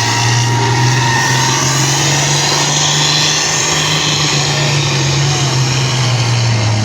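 A pulling vehicle's engine running loud and steady at full throttle under load as it drags the weight sled down the track, its pitch climbing slightly at the start and then holding.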